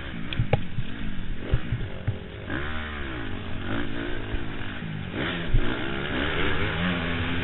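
Honda CRF four-stroke motocross bike engine revving up and down as it is ridden hard, pitch rising and falling with the throttle and gear changes, mixed with knocks and clatter from the bike over rough ground, heard from a helmet camera.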